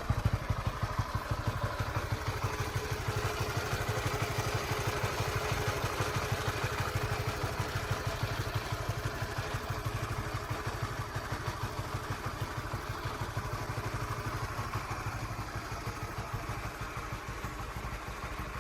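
Honda Winner 150's single-cylinder engine idling warm with a steady, even firing beat and no cam-chain rattle, which the owner takes as the sign of a healthy engine. Its somewhat loud note is typical of this upright-cylinder engine.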